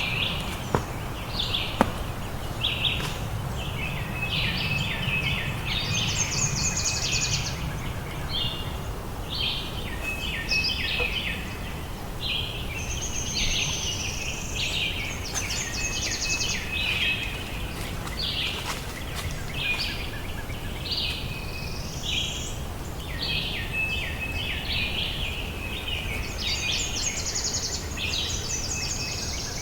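Several birds calling at once, a dense chorus of short chirps, trills and quick rising whistles that overlap without a break, over a steady low background rumble.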